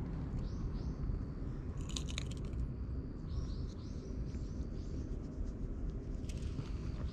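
A small bird chirping in short, high notes: two within the first second, then a quick run of five or six about halfway through, over a steady low outdoor rumble. A brief cluster of clicks about two seconds in.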